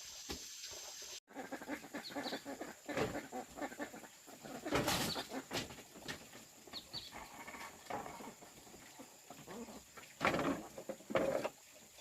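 Farm animals calling: a string of short calls, the loudest about five seconds in and two more near the end.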